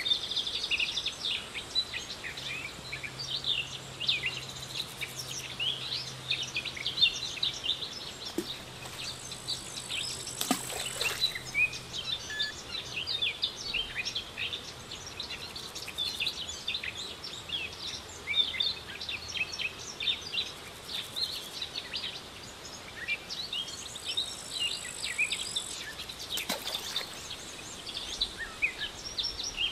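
Many small birds chirping and twittering in a dense, irregular run of short high calls, over light outdoor background noise. Two brief rustles, about a third of the way in and near the end.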